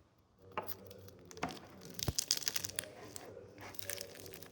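Packaging being handled and torn: crinkling and tearing with a few sharp clicks, densest about two seconds in.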